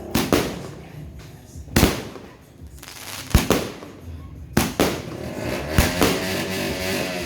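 Pegasus 'Rich Boss' 120-shot firework cake firing: a string of sharp bangs at uneven intervals, some in quick pairs, with crackling between the reports.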